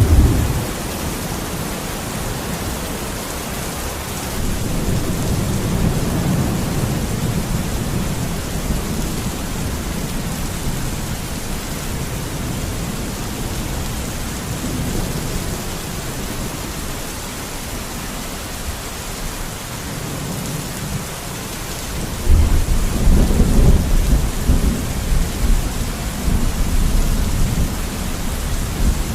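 Steady rain of a thunderstorm, with thunder rumbling low; a louder roll of thunder breaks in sharply about three-quarters of the way through and rumbles on.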